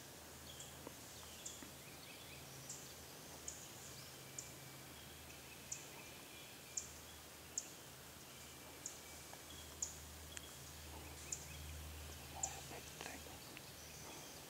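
Quiet woodland where a small bird gives short, sharp, high chip calls about once a second, over a faint low hum.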